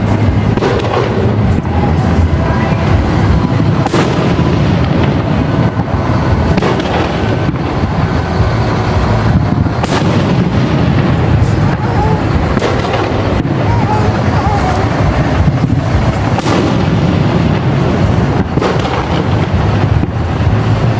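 Fireworks display: aerial shells bursting in quick succession, booming bangs and sharp cracks overlapping without a break.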